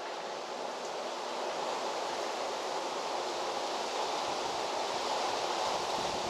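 Steady outdoor rushing noise with no distinct events, slowly swelling in level.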